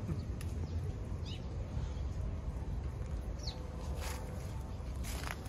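Two short, high, falling bird chirps about two seconds apart over a steady low outdoor rumble, with a couple of light clicks near the end.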